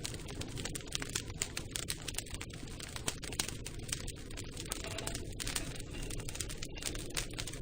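Campfire burning: dense, irregular crackles and pops of burning wood over a steady low rumble.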